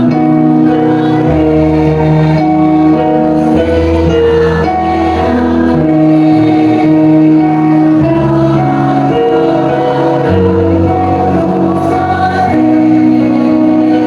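Choir singing a slow piece in sustained chords, the harmony shifting every second or two over a low bass line.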